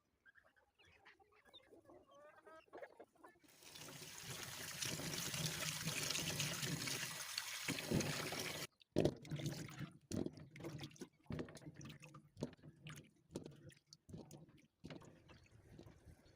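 Faint chicken clucking, then water running steadily for about five seconds and stopping suddenly, followed by a series of irregular knocks and clatters.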